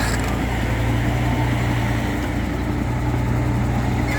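A heavy-equipment engine running steadily at a constant pitch, with no revving.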